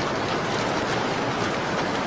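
Steady rain on a window: an even hiss of rainfall with faint ticks of separate drops.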